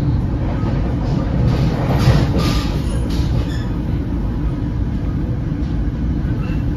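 Steady low rumble of an NJ Transit Comet V passenger coach rolling along the track at speed, heard from inside the car, with a short run of clattering about two to three seconds in.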